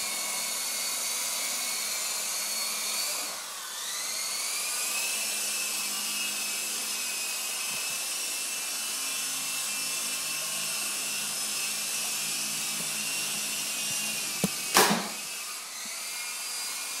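Small electric rotor motors of a toy coaxial RC helicopter whining steadily at speed. The whine dips in pitch and picks up again about three and a half seconds in, and once more near the end. A sharp knock comes about fifteen seconds in.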